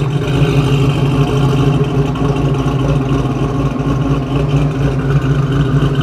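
Dodge Challenger's engine and exhaust running at a steady low idle as the car rolls slowly, with no revving.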